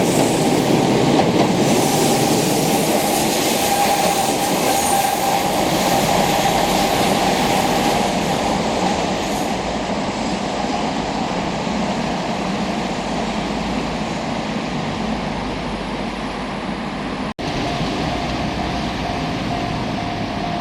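Keihan Keishin Line train running on the rails, a steady rumble of wheels and motors that slowly eases, with a thin wheel squeal for a few seconds partway through. The sound drops out for an instant near the end.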